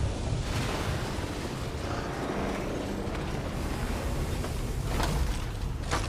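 A steady, loud rushing and rumbling noise.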